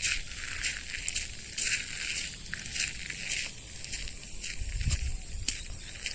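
Footsteps on a wet path, about two steps a second, over a steady high hiss, with one low thump about five seconds in.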